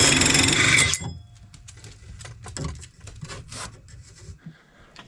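Power drill boring out a 3-inch hole through a wooden wall, running loud and then stopping about a second in. It is followed by quieter scraping, rubbing and light knocks of wood as the hole is worked.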